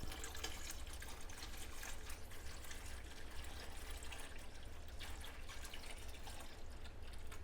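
Cleaning solution being poured from a container back into a larger vat: a steady trickle with many small drips and splashes.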